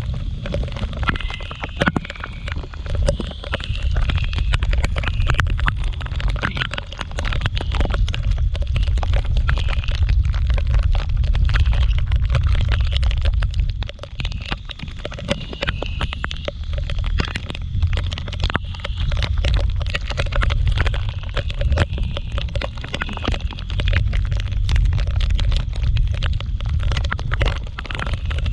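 Wind buffeting the microphone on a moving scooter in the rain: a steady low rumble, with many sharp clicks of raindrops hitting the microphone.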